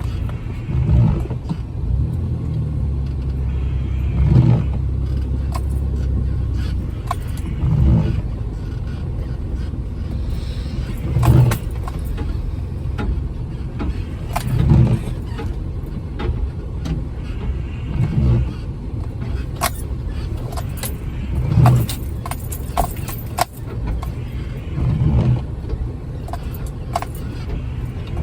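Jeep Wrangler running at low speed on a snowy off-road trail, a steady low drone with a soft swell coming back about every three and a half seconds. Light clicks and rattles come in, mostly in the second half.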